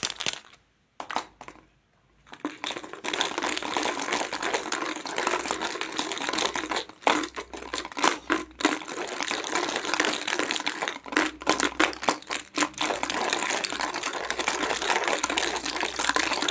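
Plastic crinkling and rustling with many small sharp clicks, handled close to the microphone. It starts after a near-silent pause of about two seconds.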